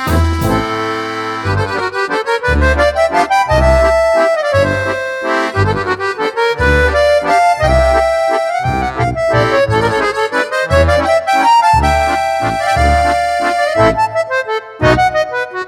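Accordion music: a melody line over a regular, pulsing bass beat.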